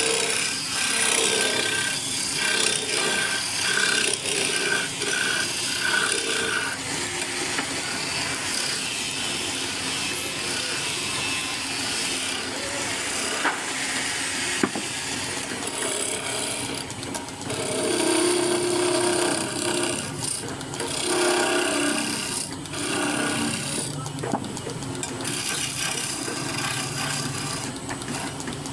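Power tools working wood: continuous sawing and rasping sounds that shift in pitch and loudness.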